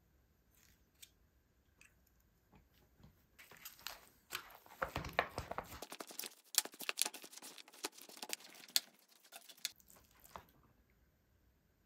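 Close-miked chewing of crunchy food: a dense run of crackles and crunches that starts a few seconds in and dies away before the end.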